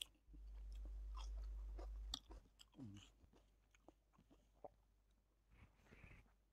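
A person chewing food with the mouth close to the microphone: faint wet clicks and small crunches, with a low steady hum in the first two seconds.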